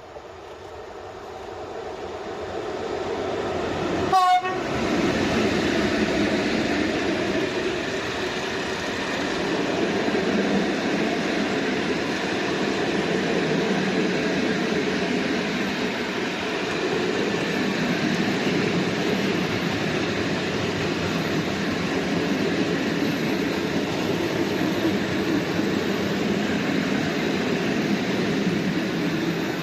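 An ET42 electric freight locomotive and its train passing close by. The rolling noise of wheels and wagons builds over the first few seconds, with a short horn blast about four seconds in, then holds steady as the wagons roll past.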